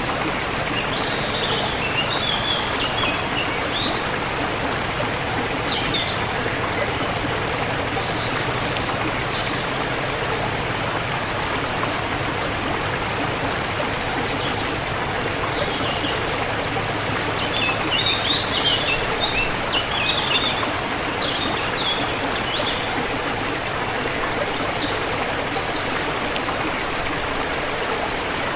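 Forest stream or river flowing steadily, with small birds chirping intermittently over it, a denser run of chirps about two-thirds of the way in.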